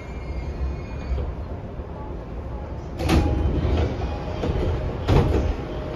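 Interior sound of an E233-7000 series commuter train at the end of a run. A low rumble carries a faint high whine that fades out about a second in. Then come two sudden loud rushing noises, about three and about five seconds in.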